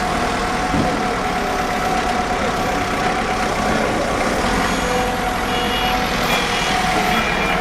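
Steady running of engines and machinery during fish unloading, with a held tone throughout. A few short high beeps come in over the second half.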